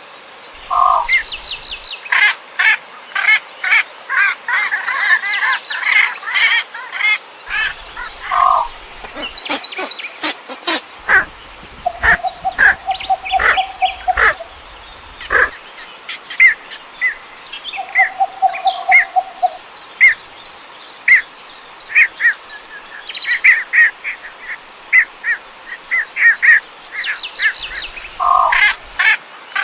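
Birds calling outdoors: many short, sharp chirps in quick, irregular succession, with a few longer, lower held notes among them.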